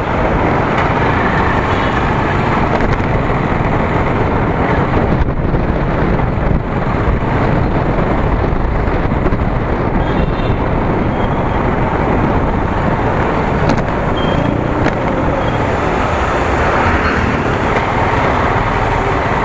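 Steady rush of wind and road noise from a motorcycle being ridden, with the engine running underneath.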